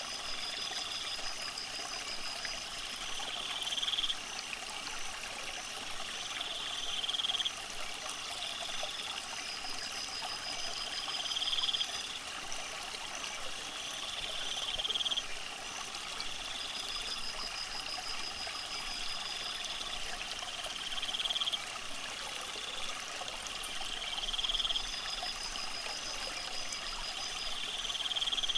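Water trickling steadily, with a high chirring trill that repeats about every three and a half seconds, each one growing louder and then breaking off suddenly.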